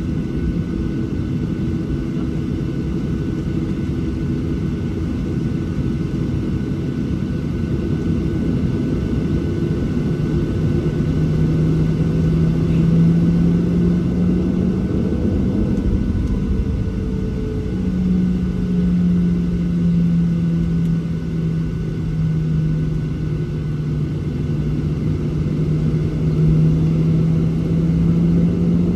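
Boeing 737-700 cabin rumble on the ground before takeoff, its CFM56-7B engines idling, heard from a forward window seat. A low hum comes in about ten seconds in and wavers slightly in pitch over the steady rumble.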